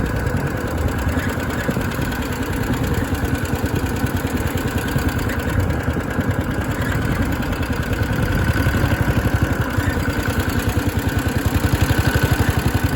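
Small minibike engine running steadily under the rider, with rapid even firing strokes that pick up slightly near the end. A steady high squeak comes from somewhere on the bike, a noise the rider has noticed and means to track down.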